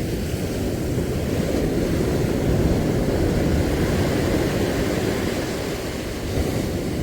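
Seaside wind rumbling on the microphone, mixed with the wash of surf: a steady low rumble that swells a little in the middle.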